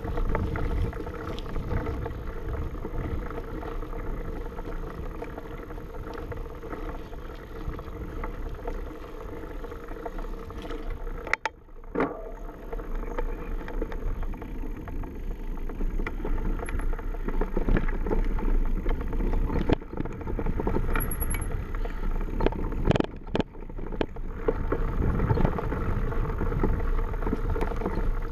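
Mountain bike ride downhill: wind rushing over the action camera's microphone with tyre and trail noise, the sound dipping briefly about a third of the way in.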